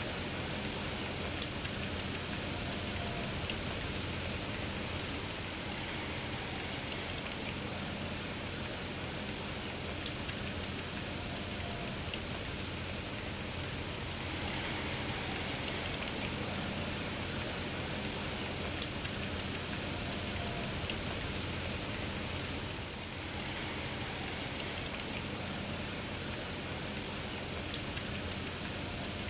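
Steady rain falling, with four sharp, louder drip taps that come evenly about every nine seconds.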